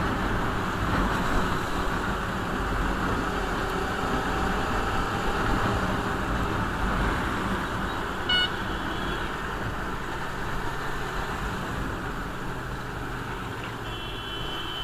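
Riding noise from a Hyosung GTR V-twin motorcycle on the move: steady wind and road rush with the engine running underneath. A short high beep comes about eight seconds in, and a held high tone lasting about a second near the end.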